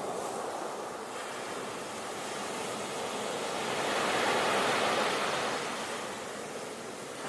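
Sea waves breaking and washing on the shore: a steady rush of surf that swells to a peak about four seconds in, then eases.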